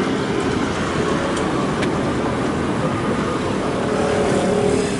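Steady traffic noise from passing vehicles, an even rumble and hiss with no pauses.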